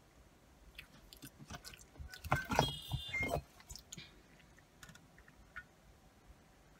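Close-up chewing and mouth sounds from someone eating curly fries, made of scattered small clicks. About two and a half seconds in comes a louder cluster of clicks with short high squeaks, followed by a few faint clicks.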